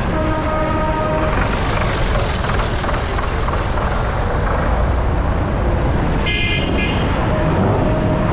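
Tractor engines running steadily, with horns tooting twice: a lower horn held for about a second near the start, and a brief higher-pitched horn near the end.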